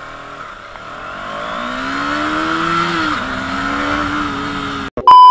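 KTM Duke 250's single-cylinder engine accelerating, its pitch rising, dropping once with a gear change about three seconds in, then climbing again. Near the end the engine sound cuts off and a loud, steady electronic beep starts.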